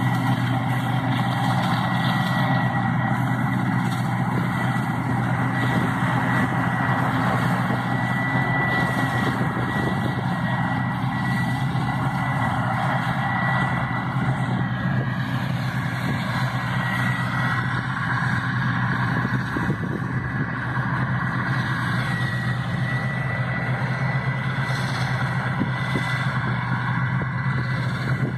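Heavy diesel farm machinery running steadily, with a low engine hum and a thin, constant high-pitched whine over it.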